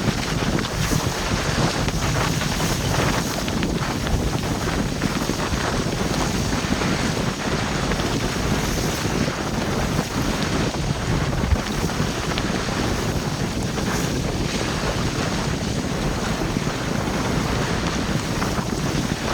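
Strong wind blowing on the microphone over the steady rush of waves and chop around a sailboat under way.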